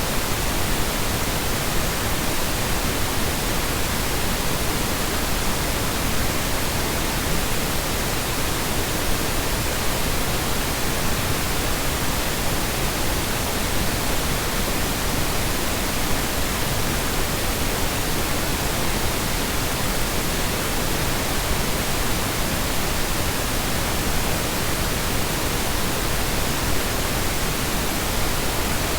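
Steady synthetic colour noise: a continuous, even hiss spread over the whole range from deep rumble to high hiss, with no change in level or character.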